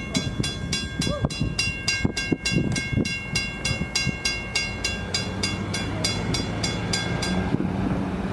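Railroad grade-crossing bell ringing, about four strikes a second, then stopping near the end, over the low rumble of a train.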